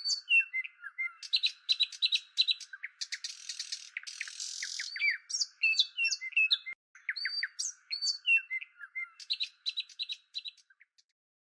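Songbirds chirping and singing: a run of short whistled notes and quick trills, with a brief rasping buzz about three to five seconds in.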